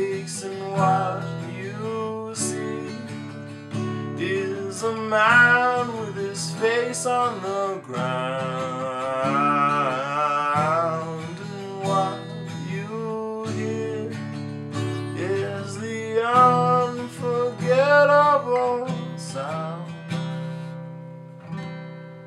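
A song played on acoustic guitar, strummed chords with a wavering melody line over them, fading out near the end.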